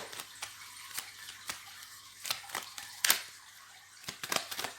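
Oracle cards being handled on a table: scattered light clicks, taps and rustles, with a sharper tap about three seconds in.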